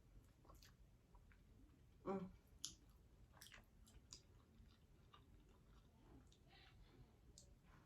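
Faint chewing and wet mouth clicks of someone eating chicken wings and fries, with a brief louder mouth sound about two seconds in.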